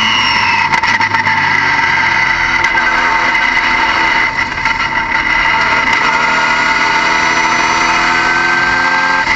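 Car engine running steadily, with a steady high whine over it; its pitch creeps slowly upward in the second half.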